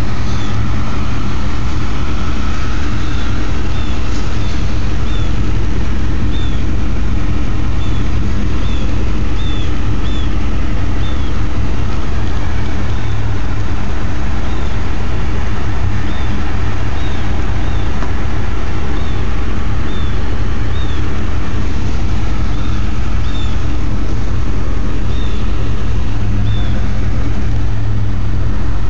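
Engine of a 1989 Chevrolet Caprice Classic LS Brougham idling steadily, a deep even hum, with short high chirps scattered through it.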